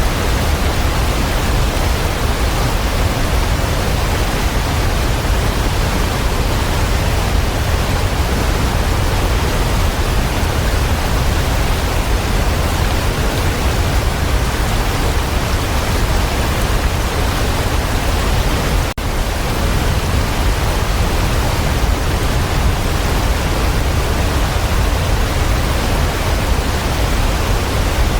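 Waterfall: a steady, dense rush of falling water, deepest in the low end, with one split-second dropout about two-thirds of the way through.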